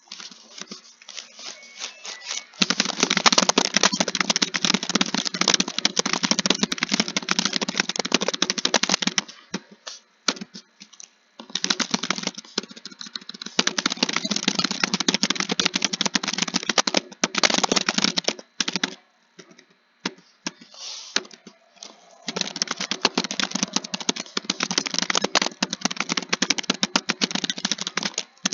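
Typing on a computer keyboard in three fast runs of key clicks, broken by short pauses with only a few scattered keystrokes, about a third and two-thirds of the way through.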